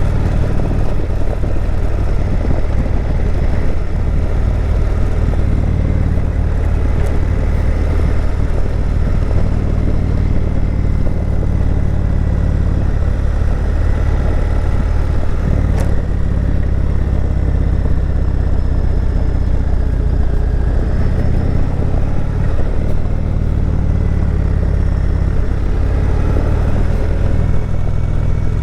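Indian Chieftain Dark Horse motorcycle's V-twin engine running steadily under way: a continuous low rumble whose pitch drifts slightly with the throttle, over a steady rush of riding noise.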